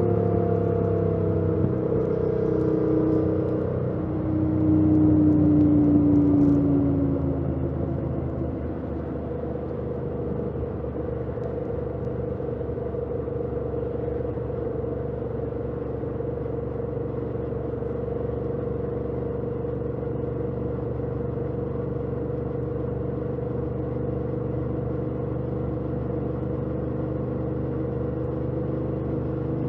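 2018 Yamaha MT-07's 689 cc parallel-twin engine through its stock exhaust, heard from the rider's position while riding. The engine note changes pitch over the first several seconds, loudest about five seconds in, then settles into a steady drone at cruising speed.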